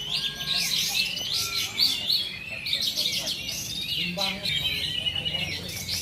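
Many caged songbirds singing at once in a dense, overlapping chorus of chirps, trills and whistled glides, with no pause.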